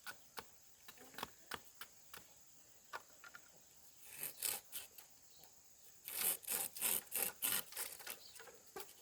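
Bamboo being cut or shaved with a hand tool: scattered light clicks, then two runs of quick rasping strokes, about three a second, starting about four and six seconds in.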